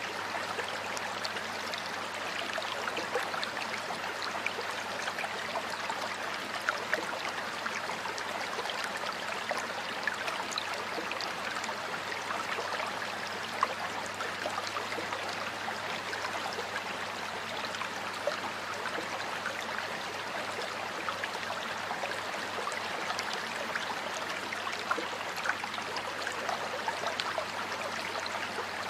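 Water of a stream or small river flowing steadily, with many small splashes throughout.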